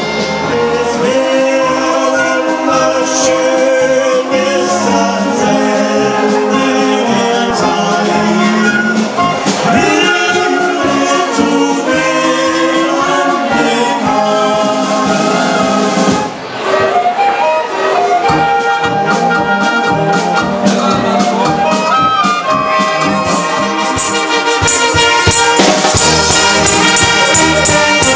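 Brass band music with trumpets and trombones playing a continuous tune, briefly dropping off about halfway through before carrying on.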